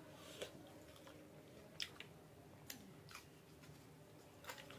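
Quiet close-up chewing of a mouthful with raw onion, with a handful of short, crisp crunches and mouth clicks spread through it.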